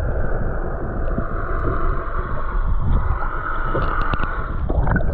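Steady, muffled rumble of water and boat noise, with a few faint clicks about four seconds in.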